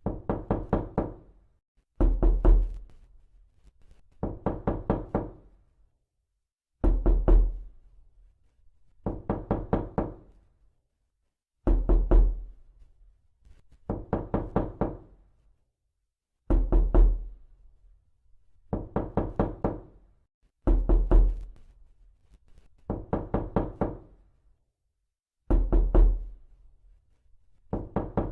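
Knocking on a door: repeated rounds of several quick raps, each round about a second long, coming every two seconds or so with a few longer pauses between them.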